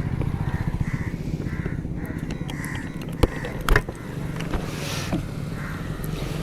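Motorcycle engine running at a steady idle, its rapid firing pulses forming a low, even rumble. Crows caw in the background, and two sharp clicks come about three and a half seconds in.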